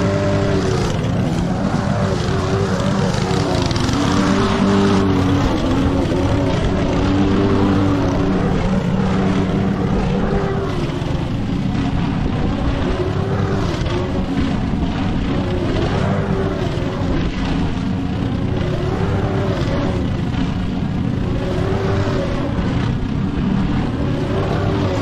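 Petrol lawn mower engine running steadily while cutting thick wet grass, its pitch wavering slightly as the load changes.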